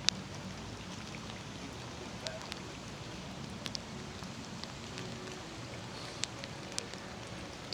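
Steady rain falling, with scattered single drops ticking sharply on nearby surfaces.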